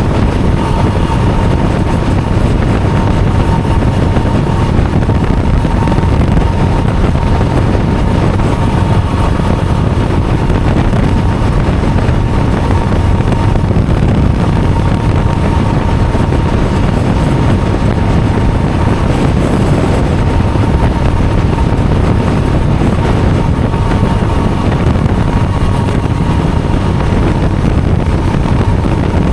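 Steady vehicle driving noise, a low rumble with wind on the microphone, with a faint steady high tone running through it.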